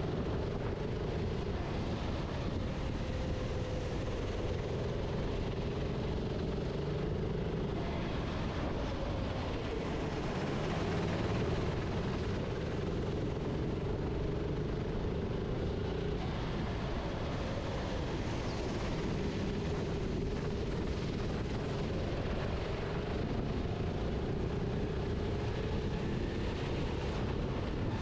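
Go-kart engine heard onboard, running continuously with its pitch rising and falling as the kart accelerates and slows through the corners, over a heavy low rumble.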